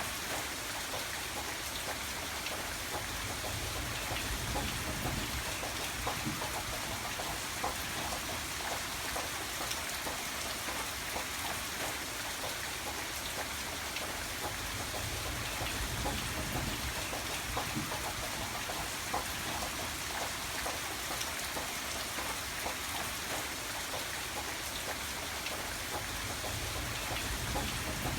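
Steady rain pattering on a surface, with many close individual drops ticking through an even hiss. A low rumble swells twice underneath.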